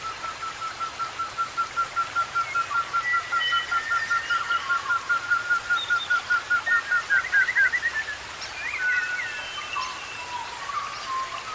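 A forest bird calling a long series of short, evenly repeated whistled notes, about four or five a second, growing louder. It ends about two-thirds of the way through with a few quicker, higher notes. Other birds call faintly around it.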